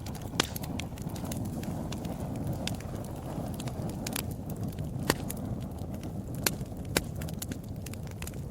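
Wood fire burning: a steady low rumble of flames with frequent sharp crackles and pops from the burning wood, a few louder pops standing out about half a second in and between five and seven seconds in.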